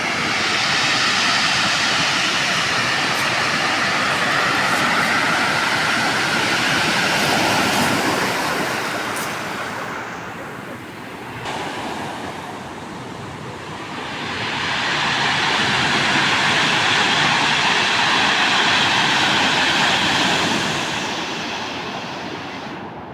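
Ocean surf breaking and washing up the beach, a rushing noise that swells twice: one long surge, a lull about halfway, then a second surge that fades near the end.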